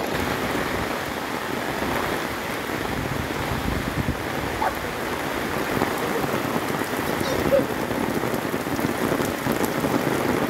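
Heavy rain falling steadily on trees, grass and a muddy path, a dense even hiss with no let-up.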